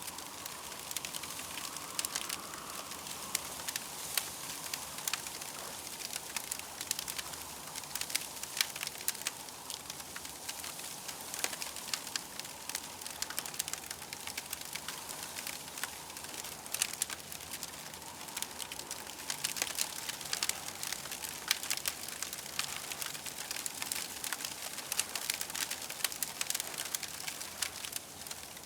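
Campfire crackling, with frequent sharp pops and snaps over a steady hiss.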